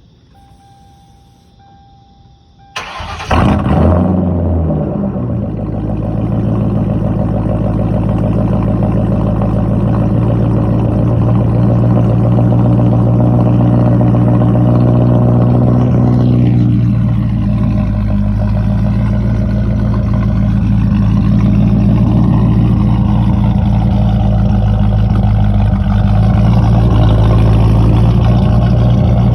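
Car engine cold-starting through a dual exhaust with Dynomax Bullet mufflers, an H-pipe and an X-pipe: it cranks briefly and catches about three seconds in, then settles into a loud, steady idle.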